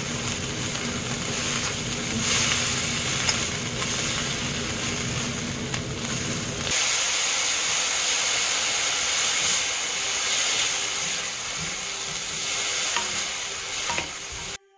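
Vegetables sizzling in a hot oiled pan as they are stir-fried: bracken fern stems turned with a wooden spatula, then, from about seven seconds in, bellflower root strips tossed with chopsticks. The sizzle cuts off suddenly near the end.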